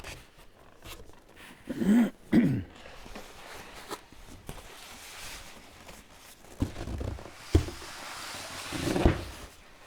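Packaging rustling and being handled as a box of wood veneer is opened, with a few sharp knocks in the second half. Short hummed voice sounds come about two seconds in and again near the end.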